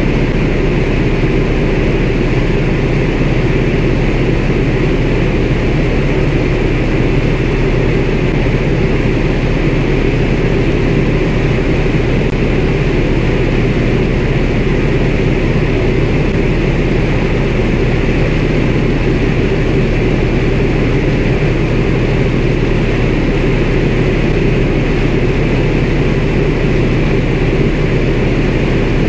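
CAC Winjeel's Pratt & Whitney R-985 Wasp Junior nine-cylinder radial engine and propeller running steadily, heard from inside the cockpit.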